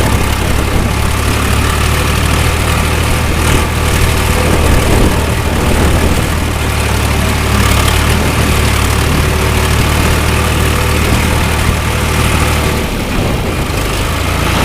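John Deere 2240's three-cylinder diesel engine running steadily as the tractor drives with a round bale on the loader; the engine note drops briefly near the end.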